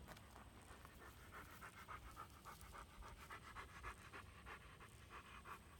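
Dog panting quickly and evenly, faint, starting about a second in.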